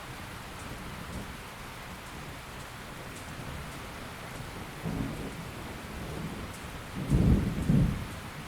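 Steady rain falling, with a low thunder rumble about five seconds in and a louder rumble of thunder in two swells near the end.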